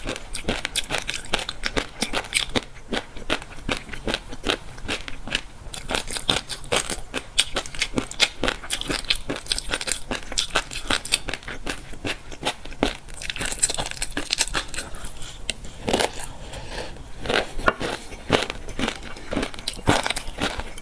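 Close-up eating sounds of fish roe: a dense, steady crackle of many small pops a second as the roe eggs burst between the teeth while chewing.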